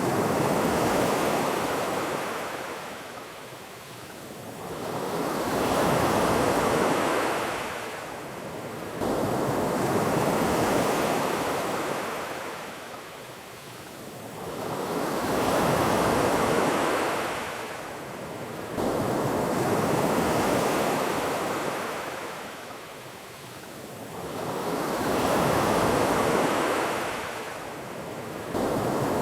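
Ocean surf washing ashore in slow swells, each wave rising and falling off about every five seconds.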